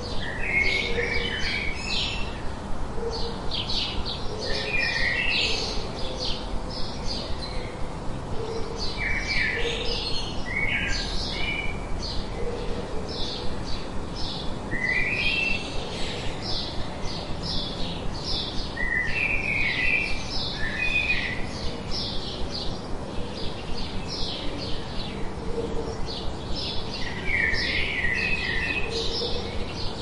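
Songbirds chirping and singing: a steady stream of short high chirps, with a longer warbled phrase every few seconds.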